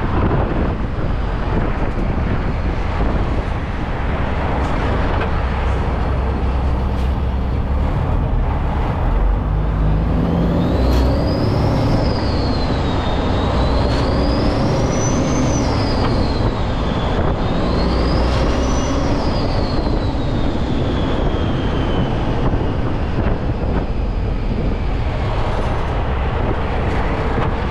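Steady road and engine noise of a semi truck underway, heard from the cab. About a third of the way in, a high wailing tone rises and falls three times, then slides down and fades.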